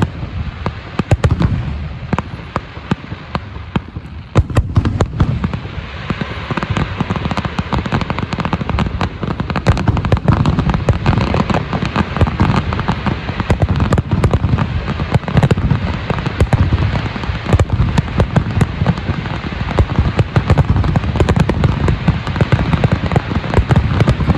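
Aerial fireworks display: a dense barrage of deep booming shell bursts mixed with rapid crackling. It thins briefly a couple of seconds in, then from about five seconds on the bursts come in a continuous rapid-fire stream.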